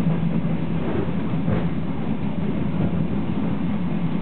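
Running noise of a DR1A diesel multiple unit under way, heard inside the passenger saloon: a steady low drone with even rail rumble.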